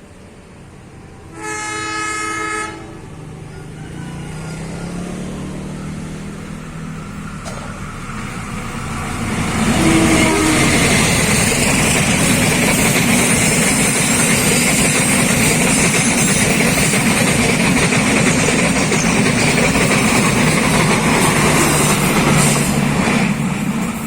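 Train horn sounding once, for about a second and a half. The train then approaches with its engine noise building, and passes close by: a loud, steady rumble of wheels on the rails and rattling wagons for about thirteen seconds, easing off near the end.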